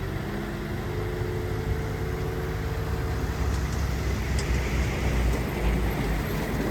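Heavy diesel earthmoving machinery running steadily with a low rumble, with a faint thin whine over the first few seconds.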